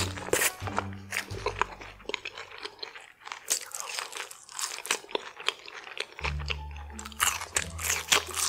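Close-miked biting and chewing of cheese- and sauce-covered crinkle-cut fries: a run of crunchy crackles and mouth sounds. Soft background music runs underneath, its low notes dropping out through the middle.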